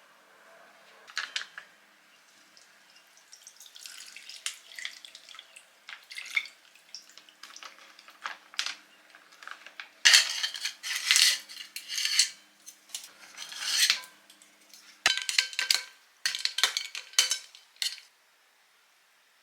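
Kitchen utensils clinking and scraping against dishes and pots in irregular strokes, busiest about halfway through, with a sharp knock a few seconds later.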